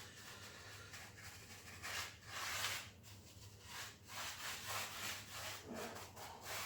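A cheap paintbrush brushing SBR primer onto a rough floor base where old tile adhesive remains, in short, irregular strokes, some of them faint.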